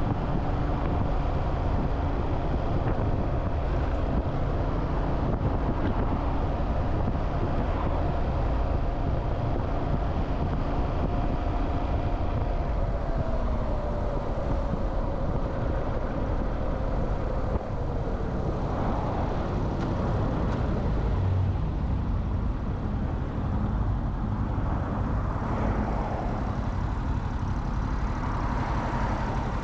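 Motorcycle engine running with steady low road and wind rumble; the engine note slowly drops midway as the bike slows.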